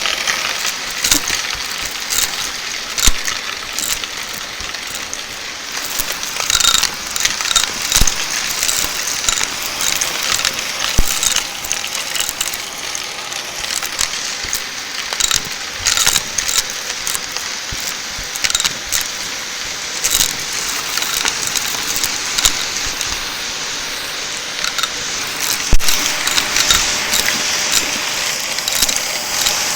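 Shark vacuum cleaner running steadily, with frequent sharp clicks and crackles of crunchy debris being sucked up.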